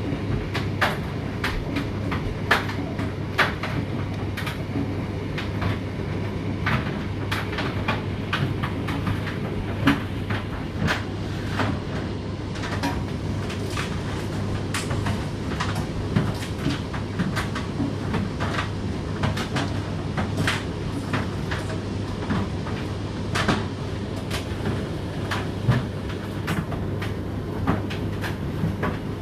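Indesit IDC8T3 condenser tumble dryer running: a steady motor hum under the tumbling drum, with irregular clicks and knocks from the load turning inside.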